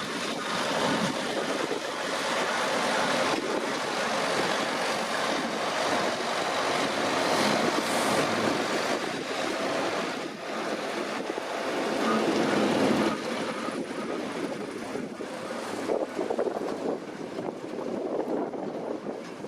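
Deutz-Fahr 6150.4 tractor running steadily while harvesting potatoes, with wind buffeting the microphone.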